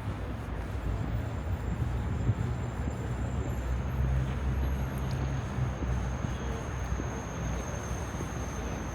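City street ambience: a steady low rumble of road traffic with no single vehicle standing out, and a faint high whine coming in about halfway through.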